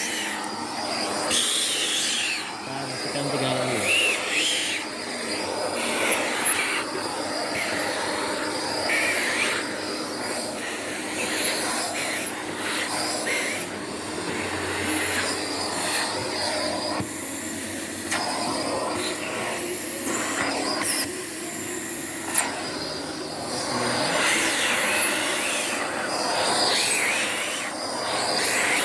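Vacuum cleaner running with a hose attachment worked over sofa upholstery: a steady motor hum with a higher whistle that bends up and down in pitch now and then. A single sharp click about two-thirds of the way through.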